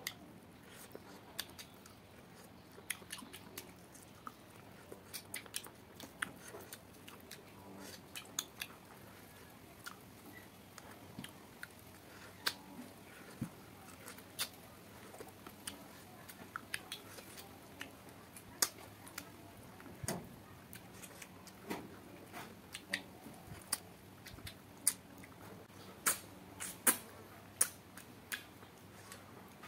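Mouth sounds of a man eating cooked duck by hand: chewing with sharp, wet lip smacks and clicks at irregular intervals, a few louder ones near the end.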